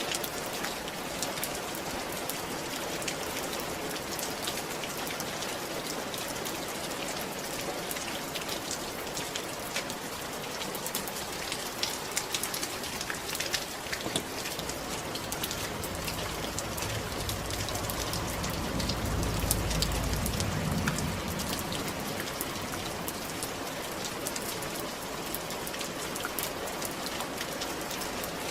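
Steady rain on a roof: a dense hiss with many small drop taps. A low rumble swells in around the middle and fades a few seconds later.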